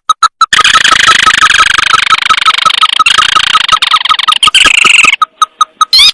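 Recorded call of a paddy-field crake (tikusan sawah), used as a hunting lure. It is a fast run of short, evenly repeated notes, about six a second, thickened for most of the clip by a second, denser trilling call over it. Right at the end come a few loud upward-sweeping notes.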